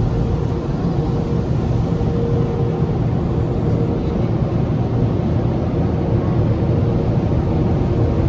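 Automatic car wash running around the car, heard from inside the cabin: a steady, loud rush of noise with a low hum. A faint steady tone fades out about three seconds in.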